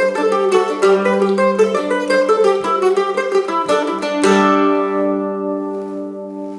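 Plucked string instrument playing the closing bars of a fast Irish jig, quick picked notes over a steady low note, ending about four seconds in on a final chord that rings and slowly fades.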